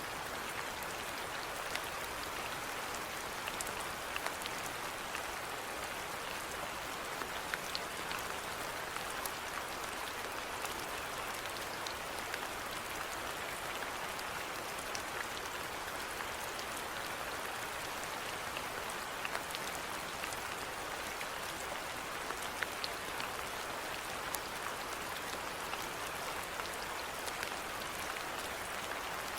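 Steady rainfall, a constant hiss of rain with scattered individual drops ticking on surfaces.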